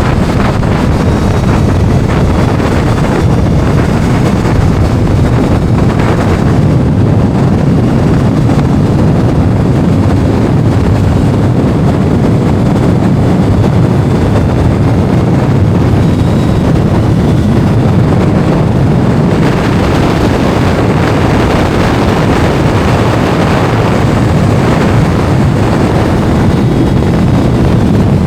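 Heavy wind buffeting the microphone on a moving Kawasaki inline-four sportbike, with the engine running underneath. It is loud and steady throughout, with more hiss around six seconds in and again from about twenty seconds.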